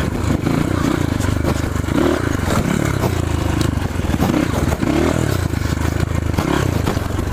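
Trail motorcycle engine running with revs rising and falling, with clattering and scraping over rough ground.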